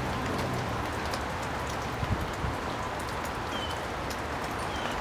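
Steady hiss with scattered light ticks, like rain falling on a surface, with a few short high chirps and one dull knock about two seconds in.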